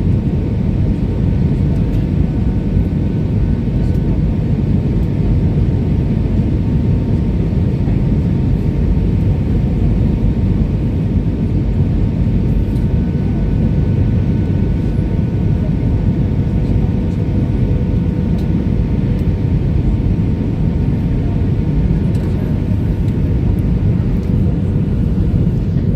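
Airbus A320 twin-engine jet airliner on its landing approach, a loud steady low rumble with faint steady tones above it.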